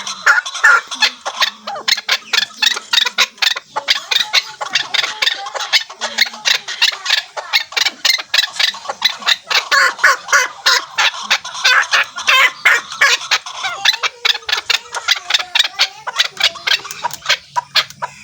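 Chukar partridge calling: a long, fast run of clucking notes, about four or five a second.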